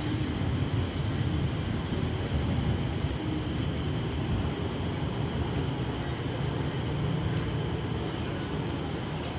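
Steady rainstorm ambience: an even hiss over a low rumble, with a constant faint high whine above.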